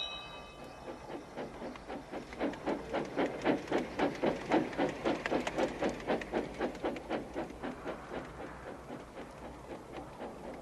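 Steam locomotive chuffing steadily at about four beats a second, growing louder and then fading away as it passes.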